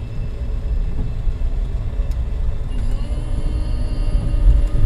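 Low rumble of a Suzuki Jimny on the move, heard from inside, with a faint steady engine hum coming in about three seconds in.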